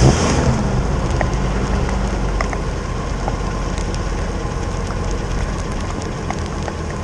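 Motorhome engine running just after a hard start on a recharged battery. It is loudest in the first half second, then settles into a steady rumbling idle.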